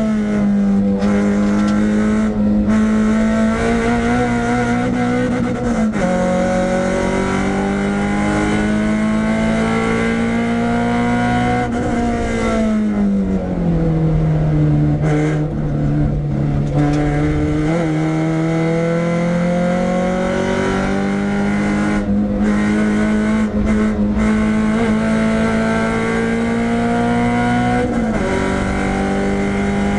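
Renault Clio 172's 2.0-litre four-cylinder engine running hard on track. Its pitch holds high, falls away about twelve seconds in, climbs again a few seconds later, and dips sharply twice, as at gear changes.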